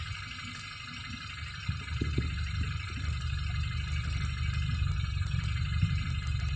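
Car engine idling steadily, getting louder about two seconds in, with faint scattered ticks of high-voltage spark jumping from a crack in the distributor cap to a screwdriver: a secondary-voltage leak that makes the engine hard to start.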